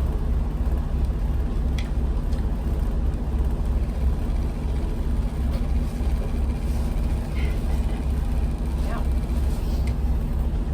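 A boat's engines running steadily while motoring under way, making an even, unbroken low drone.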